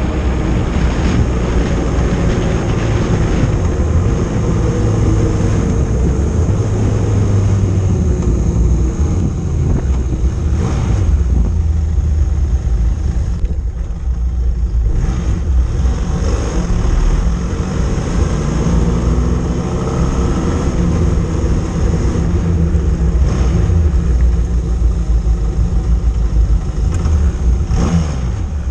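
Motorcycle engine running while riding, its pitch rising and falling as the bike speeds up and slows, over a heavy steady low rumble.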